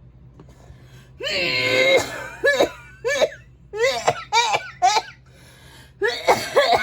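A child's high-pitched voice laughing: one longer drawn-out sound, then a string of short laughing bursts, and another cluster near the end.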